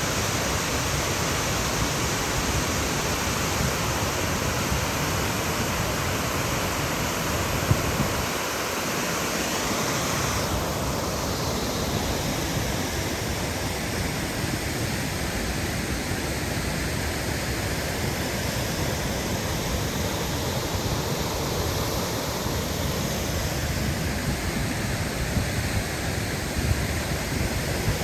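Waterfall's steady rush of falling water. About ten seconds in, the upper hiss drops away and leaves a duller, lower rush.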